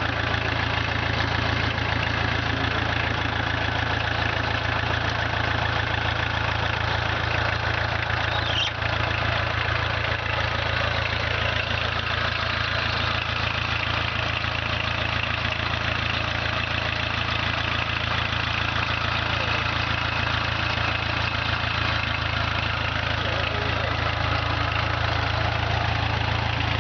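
Volkswagen 1.6 four-cylinder diesel engine in a mini tractor, idling steadily.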